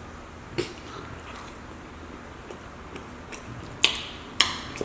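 Close-miked chewing and lip smacking, with a few sharp wet smacks, the loudest two near the end.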